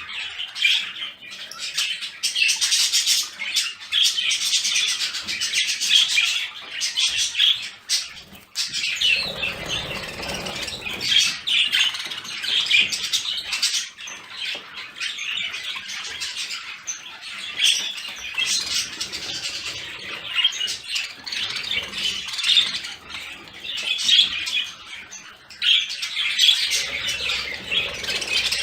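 Budgerigars chattering and warbling without a break, with squawks mixed in: the excited budgie chatter played to bring birds into breeding condition.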